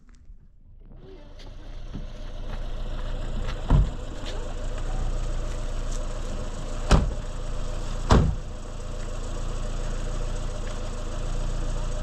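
A motor running steadily, growing louder over the first couple of seconds and then holding. Three sharp knocks cut through it, near four, seven and eight seconds in.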